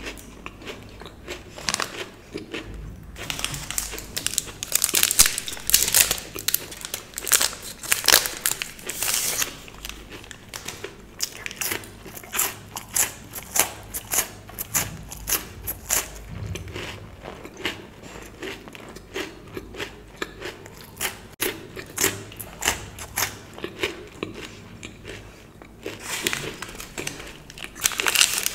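Close-up chewing and crunching of chocolate in the mouth, with sharp crackly bites into a chocolate bar. Near the end, the plastic wrapper of a Bounty bar crinkles as it is handled.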